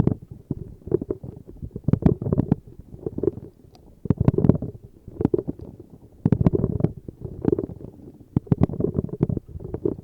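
Close-miked ASMR tapping: clusters of quick, soft taps and scratches, coming in bursts about once a second.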